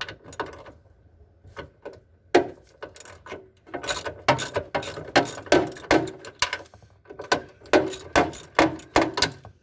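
Hand tools working on screws and fittings: scattered sharp metallic clicks, then two runs of rapid clicking in the second half.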